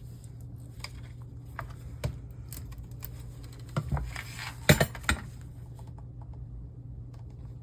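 Scattered light clicks and taps of hands and tools handling the parts of a disassembled LCD monitor, with the loudest knocks about five seconds in, over a steady low hum.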